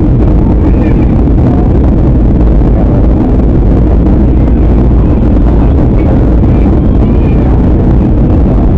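Jet airliner cabin noise in flight: a steady, loud, low rumble of engines and airflow that stays even throughout, with faint passenger voices underneath.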